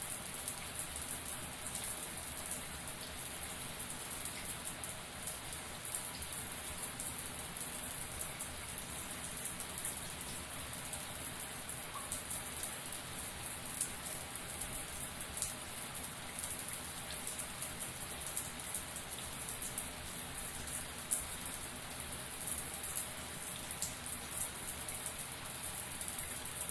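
Running shower: a steady spray of water drops hissing and pattering onto a surface.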